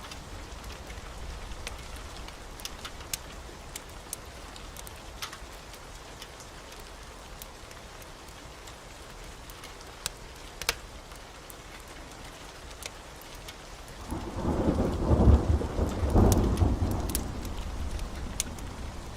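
Steady rain with scattered sharp ticks, then a roll of thunder that builds about two-thirds of the way in, peaks, and slowly rumbles away near the end.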